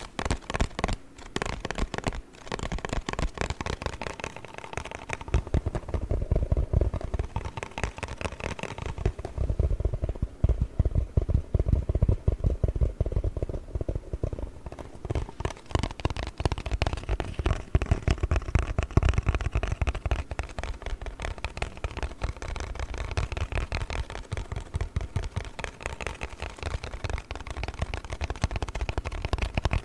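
Rapid tapping and scratching on a cardboard box, a dense unbroken run of quick taps, deeper and heavier in the middle stretch.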